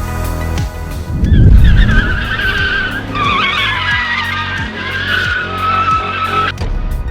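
Car tyres squealing, a wavering high screech lasting about five seconds, with a surge of engine noise as it begins. Electronic music with a steady beat plays underneath.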